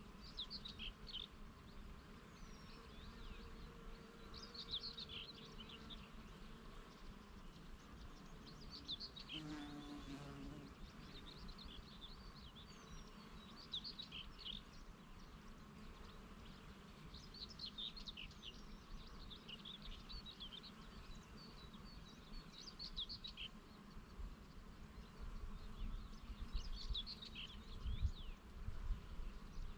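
Songbirds singing short, high chirping phrases over and over, with a bee buzzing past once about nine to ten seconds in. Gusts of wind rumble on the microphone near the end.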